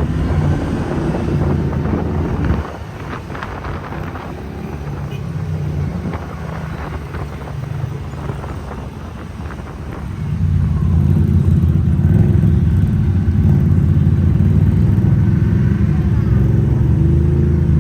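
Off-road ATV engine running, loud for the first couple of seconds, then dropping abruptly to a lower level about two and a half seconds in. About ten seconds in it rises again and holds steady.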